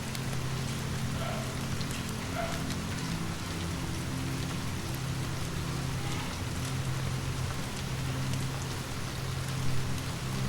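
Steady rain falling, with scattered sharp ticks and a steady low hum underneath. There is a brief louder bump near the end.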